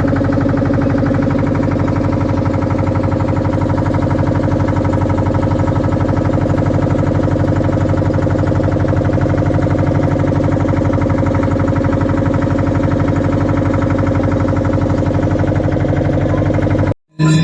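Boat engine running steadily at one constant speed with a rapid even pulsing, cut off abruptly near the end.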